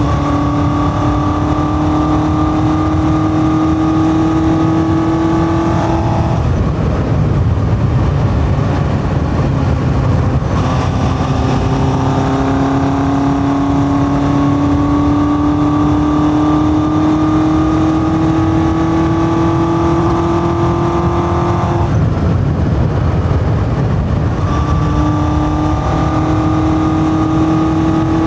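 1981 Yamaha XJ550 air-cooled inline-four with a 4-into-1 exhaust and open K&N pod filters, ridden under load: the engine note climbs slowly as it pulls. Twice it drops away for a few seconds, off the throttle, leaving wind and road rush, then picks up again.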